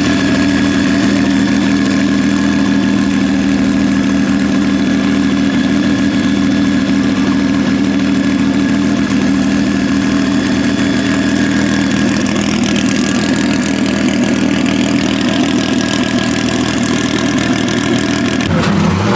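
A car engine idling steadily with an even, unchanging note; the note shifts near the end.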